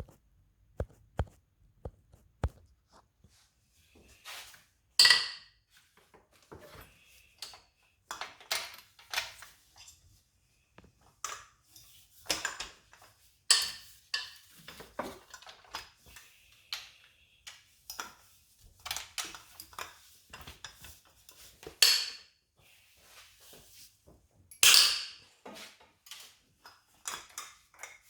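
Irregular metallic clinks and clanks of hand tools and engine parts being handled, with a few louder clanks spread through.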